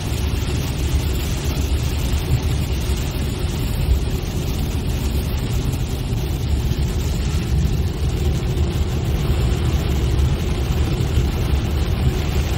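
Steady rumble of a car driving, road and engine noise with a hiss over it and no sudden events.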